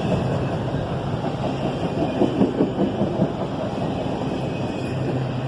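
Freight train of empty auto-rack cars rolling past, steel wheels running on the rail with a cluster of clacks about two to three seconds in.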